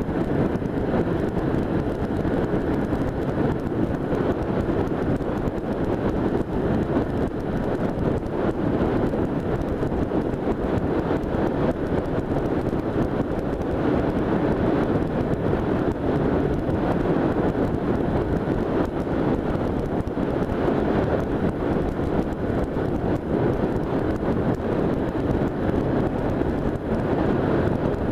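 Steady wind rush buffeting the microphone of a moving motorcycle, mixed with the running of the 1978 Honda Hawk 400's parallel-twin engine and road noise.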